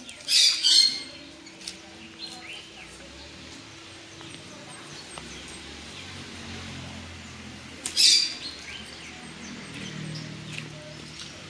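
A bird calling: two loud, shrill calls about half a second in and another about eight seconds in, with a few faint chirps between.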